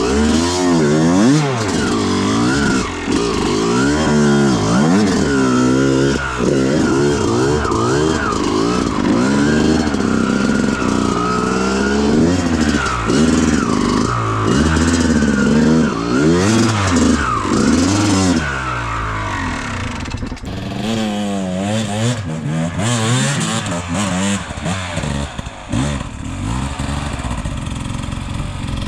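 Dirt bike engine revving up and down over and over as it is ridden, with some clattering. It eases off and runs quieter in the last several seconds.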